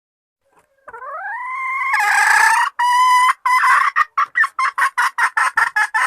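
Junglefowl hen's mating call: starting about a second in, a long call rising in pitch and then held, followed by a run of short clucking notes that come quicker and quicker, about five a second by the end.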